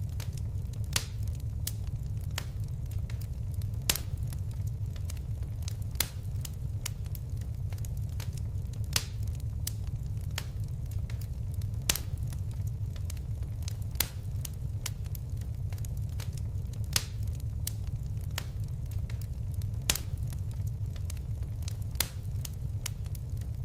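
Fire crackling: a steady low rumble of flames under many small crackles, with a sharper pop every couple of seconds.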